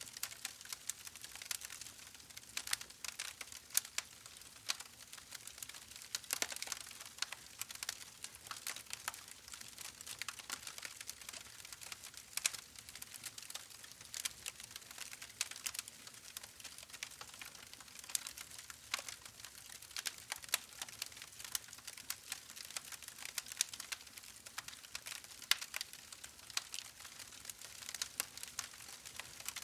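Wood fire burning in a fireplace, crackling and popping irregularly over a soft hiss, with several sharper pops standing out.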